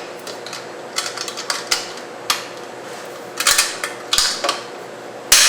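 Irregular clinks, clicks and knocks of kitchenware being handled, about a dozen spread unevenly with the loudest near the end, over a faint steady hum.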